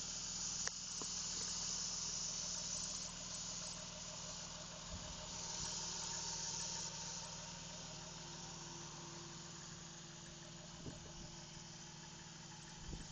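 Toyota 1JZ-GTE twin-turbo inline-six idling steadily and quietly, with a single click about half a second in.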